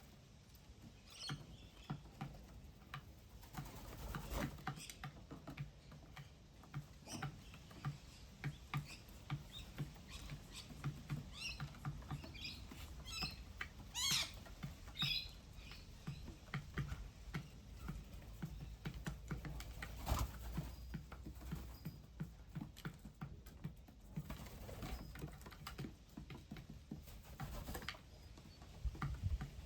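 Small birds feeding close to the microphone: rapid, irregular pecking taps and scratches, with a handful of short high chirps around the middle.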